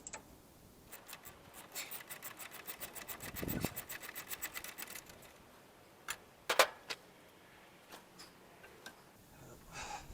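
Ratchet wrench clicking rapidly, about eight clicks a second for a few seconds, then a couple of sharp metallic clanks near the middle.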